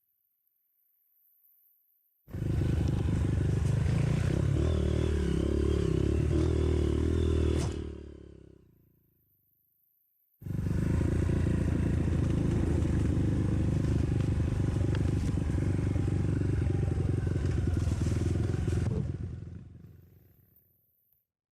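Trail motorcycle engine running hard, heard in two loud stretches of several seconds each. Each starts suddenly and then fades away, with near silence between them.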